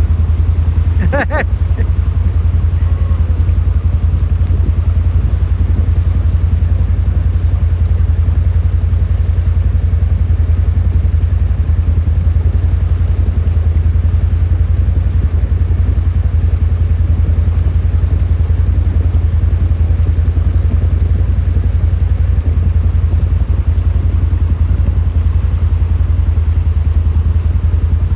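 ATV engine running steadily, a constant low drone, with a brief pitched call or voice about a second in.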